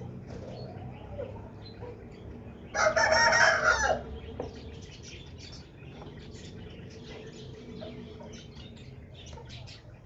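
Caged parakeets chirping in short bursts, with one loud, drawn-out call lasting about a second, about three seconds in.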